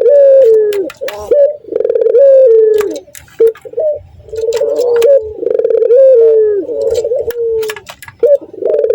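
Male puter (domestic Barbary/ringneck-type dove) giving its loud, repeated 'laughing' coo, several phrases in a row, each sliding down in pitch, with short pauses between them. The title calls it the courtship coo of a male in breeding condition at the sight of a female.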